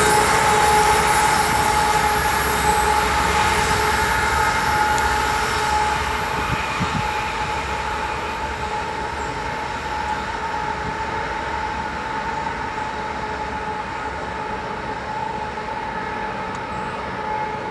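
A BNSF coal train's diesel locomotives and cars rolling past and fading into the distance, with a steady high whine held over the running noise as it grows fainter.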